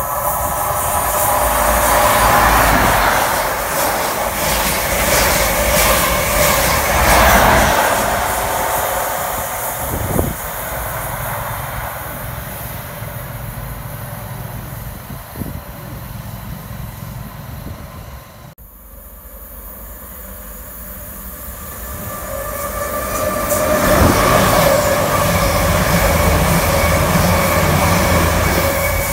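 A Class 43 HST diesel power car pair passing through at speed, engines and wheels loud for the first several seconds and then fading. After a sudden break, a second passenger train builds up and runs past near the end.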